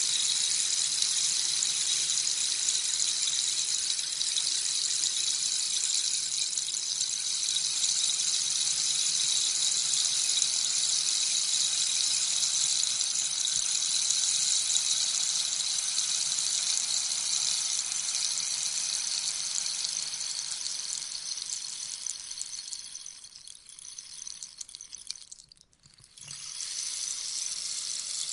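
Rainstick: a steady rain-like patter of beads falling through the tube. Near the end it thins out and stops briefly, then starts again.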